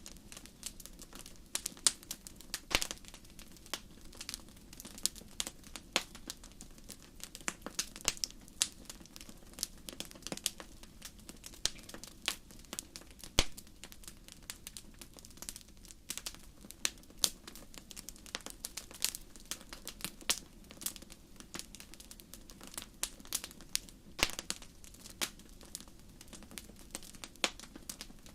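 Wood fire crackling: irregular snaps and pops, dense throughout, over a low steady rush.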